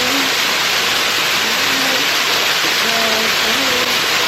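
River water rushing over rocks, a loud steady roar with no let-up; faint distant voices show through underneath.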